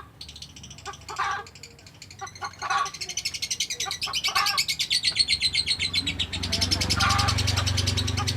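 Lovebird 'ngekek': a fast, unbroken chattering trill of rapid high pulses, building from a few short chirps at the start into a long continuous run about three seconds in. A low hum joins underneath near the end.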